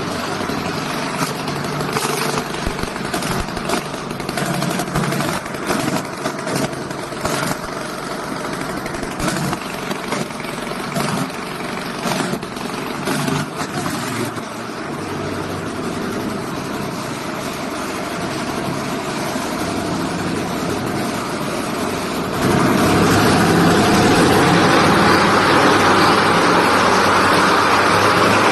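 A 550cc UAV engine running at low throttle, uneven, with sharp crackling pops over the first half. About 22 seconds in it steps up to a higher throttle setting and runs louder and steadier.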